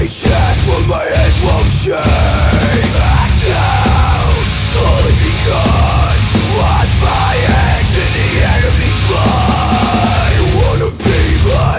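Heavy metal band playing loud, dense music, dropping out for an instant just after the start and again about eleven seconds in.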